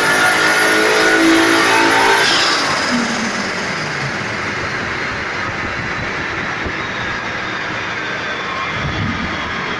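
Turbocharged BMW M50B25 straight-six pulling hard at high revs under load on a dyno, then the throttle closes about two seconds in and the engine note cuts off and falls in pitch as the revs drop. A steady rushing noise carries on as the run winds down.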